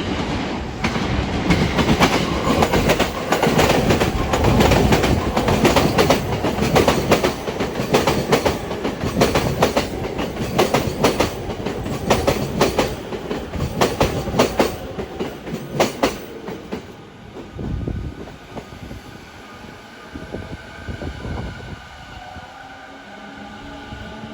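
Sobu Line electric train passing, its wheels clattering over the rail joints in rapid repeated clacks. The clatter stops about 16 seconds in, and a fainter rising whine follows near the end.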